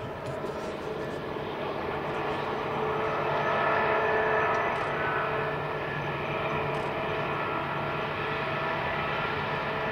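Distant train running across open country: a steady drone with a few held whining tones, swelling a little about four seconds in.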